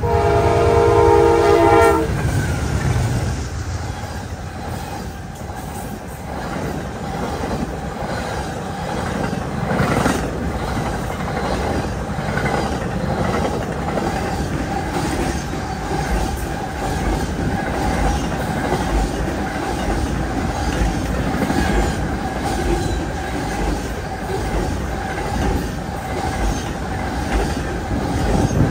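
Amtrak Auto Train locomotive horn sounding a chord that cuts off about two seconds in, followed by the steady rumble and wheel clatter of passing freight and Auto Train cars. From about twelve seconds on a steady wheel squeal rings over the rumble.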